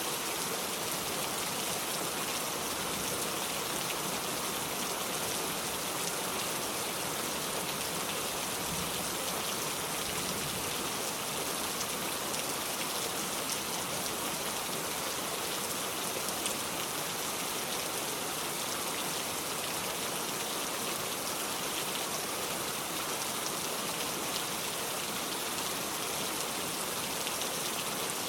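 Steady rain: an even hiss of falling rain with fine drop ticks, unchanging in level.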